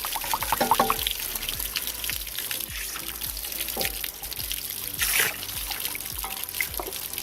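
Water trickling and splashing out of an RV water heater's drain opening, over background music.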